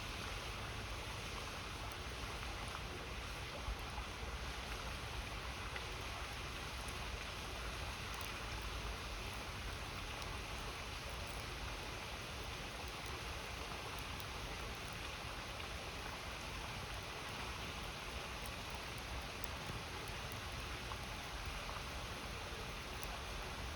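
Steady rush of river water, with a few faint small crackles from a wood campfire.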